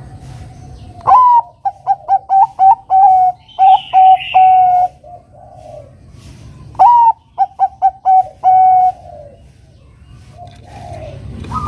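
Zebra dove (perkutut, Bangkok strain) singing its cooing song twice. Each phrase opens with a rising note, runs into a quick string of short coos, and ends on a longer held coo.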